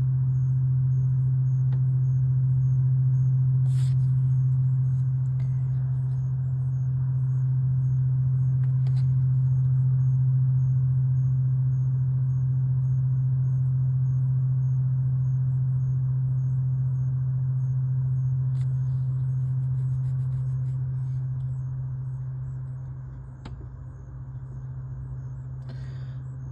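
A loud, steady low-pitched drone of unknown origin that swells a little and then eases off near the end. The recordist cannot place it and wonders whether it is distant construction equipment or the so-called 'hum'.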